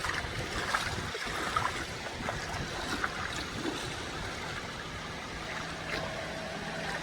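Sea surf washing onto a beach: a steady rushing hiss of waves.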